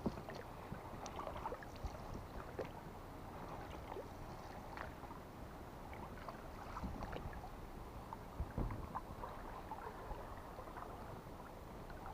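Water slapping against the hull of a small boat, with scattered light knocks and clicks and one louder thump a little past the middle.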